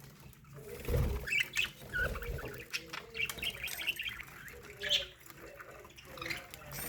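Flock of budgerigars chirping and warbling, many short high chirps overlapping, with two low thuds about one and two seconds in.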